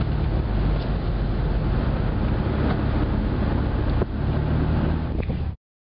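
A vehicle's engine and road noise as a steady low drone, with a single click about four seconds in; the sound cuts off abruptly near the end.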